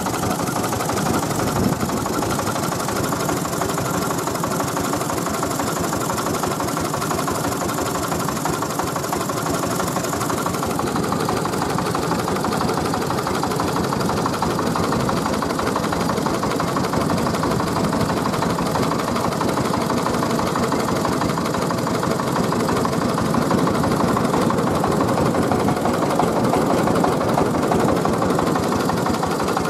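Tiger 24 hp diesel engine of a mobile rice mill running steadily, a little louder in the last few seconds.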